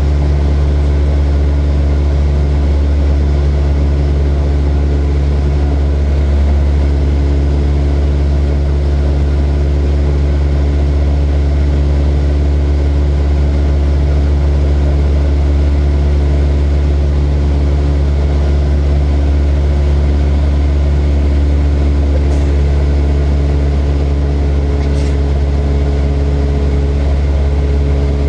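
Light propeller airplane's engine and propeller running with a steady, unchanging drone.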